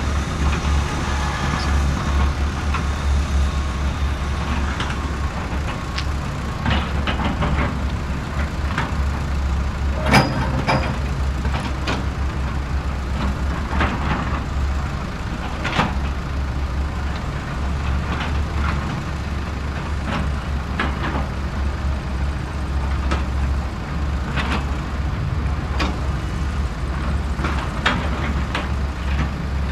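A steady low hum runs throughout, over scattered clicks, scrapes and knocks of hand tools on the hydraulic pump motor's metal parts as its carbon brushes are worked free, with a sharper knock about ten seconds in.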